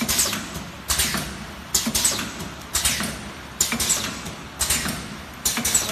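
Two-lane liquid sauce sachet packing machine running in a regular cycle, a sharp clack followed by a fading hiss a little more than once a second.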